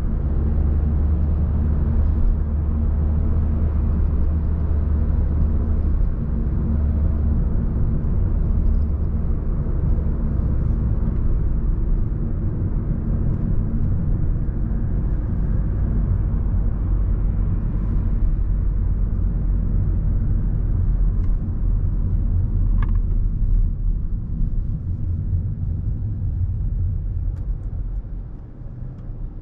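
Steady low rumble of road traffic on a busy city street, with a brief high squeak about three-quarters of the way through.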